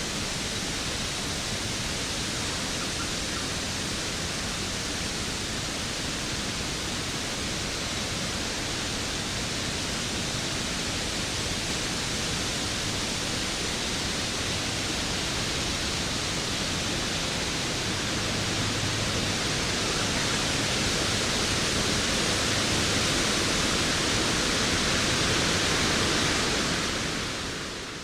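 Steady, dense rushing of a waterfall, growing a little louder in the later part and fading out near the end.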